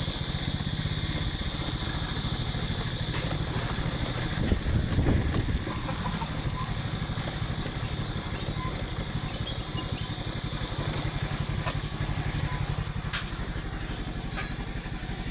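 Motorcycle engine running steadily while riding, with a louder swell that rises and falls about four and a half seconds in.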